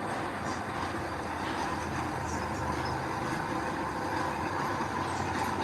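Heavy earthmoving machinery, a bulldozer or dump truck, running steadily with a continuous diesel drone.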